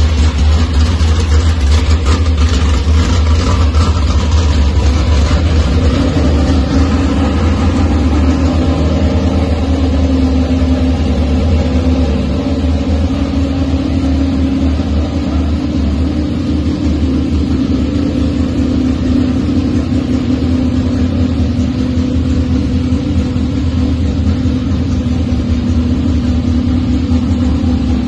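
1955 Chevy's freshly built 410 cubic-inch stroker small-block V8 with Holley Sniper EFI idling steadily and loudly, its level dipping slightly about twelve seconds in.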